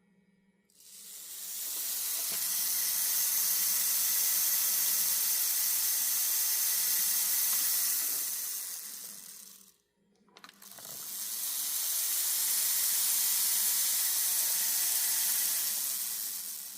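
Model locomotive's electric motor and gear train running on test power, its wiring freshly re-soldered. It is twice brought up to a steady high-pitched running speed and back down to a stop, with a short silent gap about ten seconds in.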